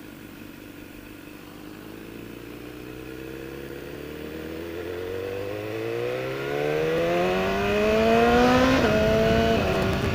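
BMW S1000R inline-four motorcycle engine pulling away, its note climbing steadily in pitch and getting louder for several seconds. Near the end the pitch drops suddenly with an upshift.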